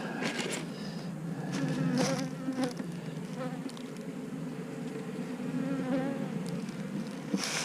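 Swarm of honeybees buzzing steadily around an open hive, the pitch wavering as bees fly close. A few sharp clicks or knocks from hive frames being handled are heard on top.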